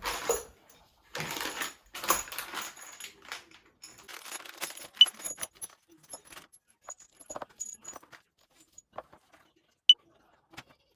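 Light metallic jingling and clinks with rustling and scrabbling from a kitten playing on a cat tower, busier in the first half, with two sharp bright pings about five and ten seconds in.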